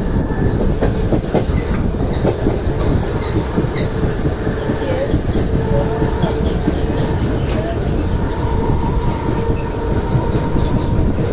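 Mumbai suburban local electric train running steadily on the rails, heard at its open doorway: a loud, even rumble of wheels on track with a continuous high, flickering wheel screech over it.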